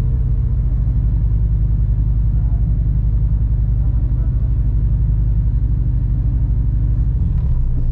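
Stock Honda S2000 (AP2) 2.2-litre four-cylinder engine running steadily with a deep, pulsing rumble, no clear revving up or down.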